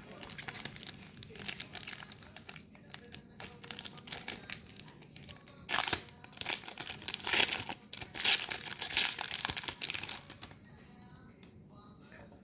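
Crinkling and tearing of a foil trading-card booster pack wrapper being handled and ripped open, in quick crackling bursts that are loudest past the middle and stop about ten seconds in.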